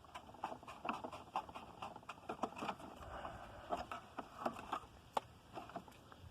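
Irregular light clicks, taps and rattles, about two or three a second, from handling the Hoover PowerMax II upright vacuum while it is switched off.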